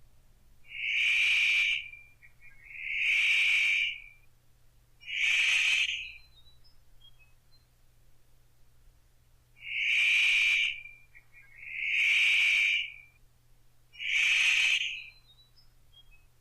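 Paradise riflebird calling: six loud, harsh calls about a second long each, in two groups of three with a pause of about four seconds between the groups.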